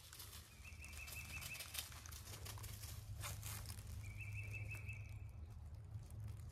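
A bird singing a short, even trill on one pitch, twice, each about a second long, over faint rustling of leaves.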